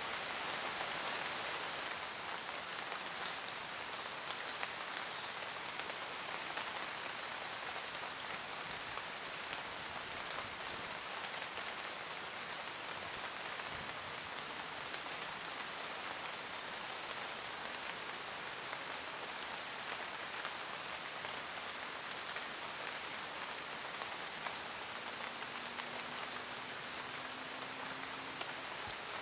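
Steady rain falling on forest foliage: a dense, even hiss with many individual drops pattering on leaves.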